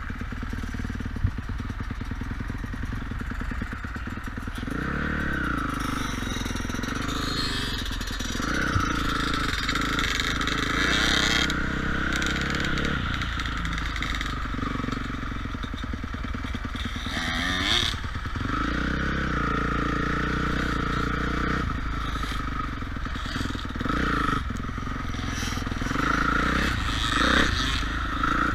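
Motocross dirt bike engine revving hard and easing off over and over, its pitch climbing and dropping repeatedly.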